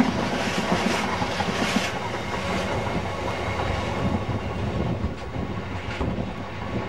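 Freight train of bogie oil tank wagons rolling past at speed, wheels clattering and knocking on the rails over a steady rumble that eases a little as the last wagon goes by.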